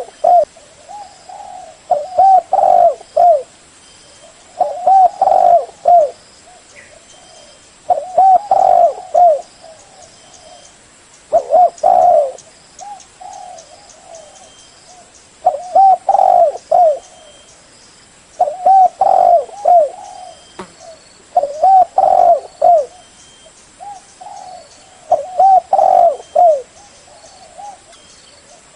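Spotted dove (cu gáy) singing its cooing song: a phrase of a few rounded coos repeated about every three seconds, around nine times, with softer coos in between.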